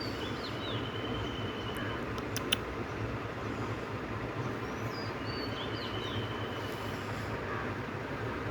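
Steady low background rumble. A short, high chirping call sounds twice, near the start and again about five seconds in, and a few sharp clicks come around two seconds in.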